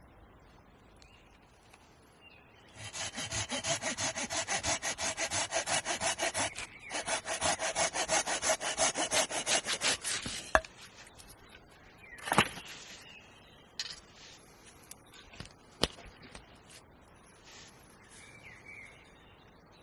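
Hand saw cutting through wood in quick back-and-forth strokes, about four a second, with one short break; a few sharp wooden knocks follow, the loudest about twelve seconds in.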